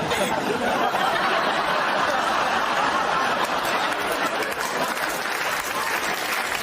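Studio audience applauding steadily, with some crowd chatter mixed in.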